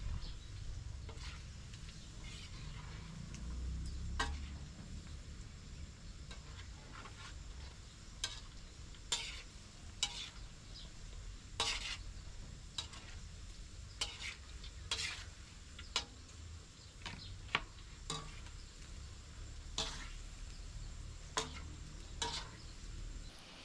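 Food frying in a pan with a light sizzle, while a utensil stirs and scrapes it, knocking against the pan in irregular sharp clicks about once a second.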